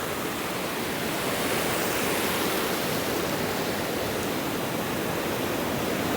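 Steady rush of ocean surf, growing a little louder about two seconds in.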